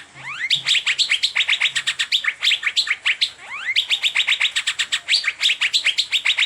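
Asian fairy-bluebird (cucak biru) singing a fast, unbroken run of short chirps, many a second, some of them sweeping upward in pitch.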